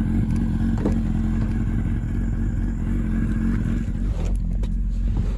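Four-cylinder car engine idling steadily, with a couple of faint clicks.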